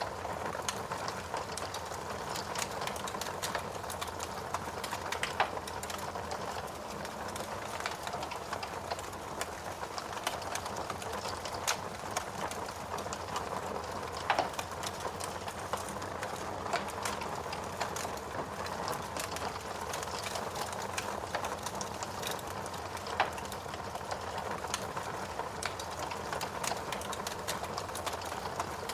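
Fire crackling with rain falling: a steady hiss dotted with constant small snaps and pops, a few of them louder.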